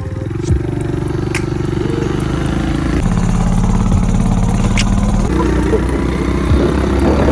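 Small dirt bike engine running, its note shifting up about three seconds in and changing again a couple of seconds later.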